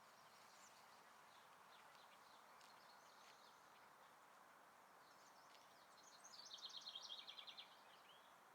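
Faint songbirds chirping over a steady background hiss. About six seconds in, one bird sings a rapid trill of quick repeated high notes lasting about a second and a half, the loudest sound here.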